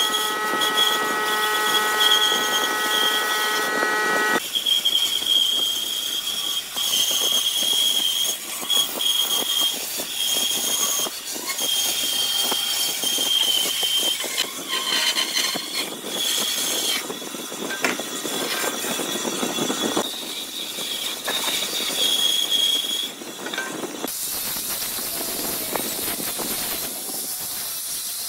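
Woodworking power tools running with a high, steady whine and hiss. The sound changes abruptly every few seconds, and the first few seconds carry a set of steady motor tones.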